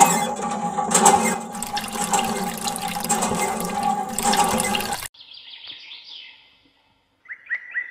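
Water gushing and splashing from a miniature hand pump's spout into a small metal bucket, over a steady hum; it cuts off abruptly about five seconds in. A few faint high chirps follow near the end.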